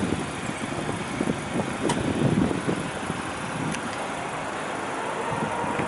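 A car engine idling steadily, with a couple of faint clicks.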